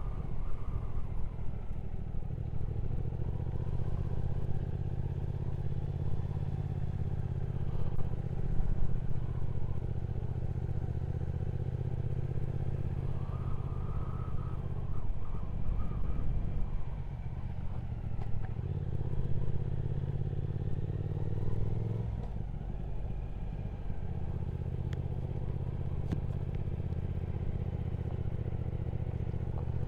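Triumph Speed Twin 1200 parallel-twin engine running on the move, a steady low note whose pitch shifts a few times as the throttle and gears change.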